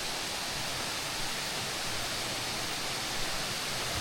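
Twin waterfall rushing: a steady, unbroken roar of falling water.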